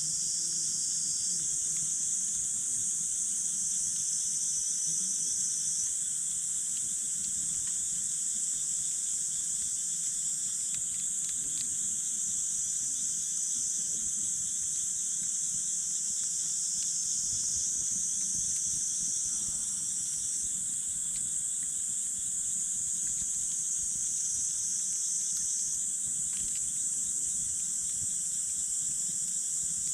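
A steady, high-pitched chorus of night insects, such as crickets, chirping continuously. A few faint pops and crackles from the burning wood campfire are heard now and then.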